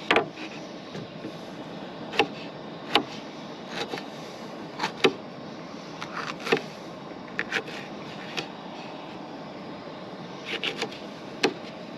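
Knife knocking on a cutting board at irregular intervals while peppers are cut, about fifteen sharp taps over a steady background hiss.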